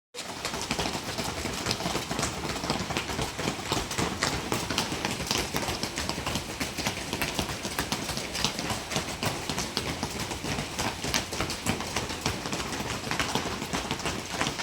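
Rapid, continuous footfalls of running on the spot with knees lifted, a quick irregular patter of foot strikes.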